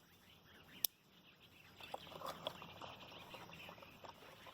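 A sharp snap of a small dry twig broken by hand about a second in, then faint crackling and rustling as the kindling sticks are handled.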